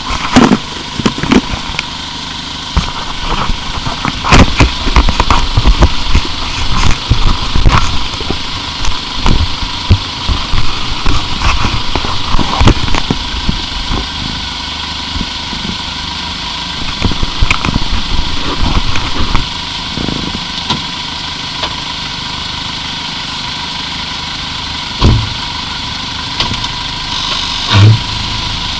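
1999 Plymouth Breeze with its 2.0-litre engine running, with many irregular knocks and scraping grinds over the first twenty seconds, then a steadier running sound broken by two heavy thumps near the end. The owner blames the grinding at the front right wheel on a possibly worn lower control arm.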